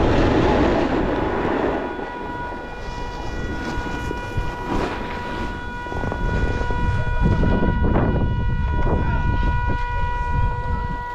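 A car horn sounding one steady, unbroken note, stuck on after a collision, over a low rumble that is heaviest in the first two seconds.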